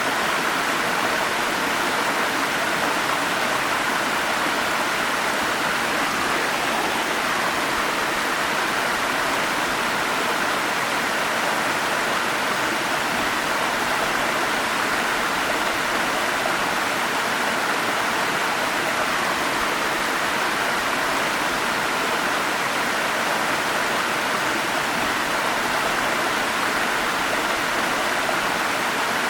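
Forest stream flowing with a steady, even rush of water.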